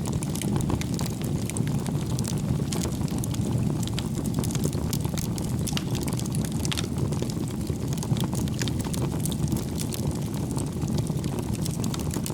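Wood fire burning: a steady low rumble of the flames with frequent small crackles and pops of the burning logs.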